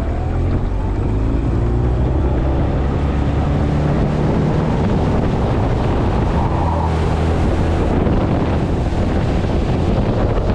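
Small outboard motor on a Gheenoe boat running under way, with wind buffeting the microphone; the engine picks up speed just at the start.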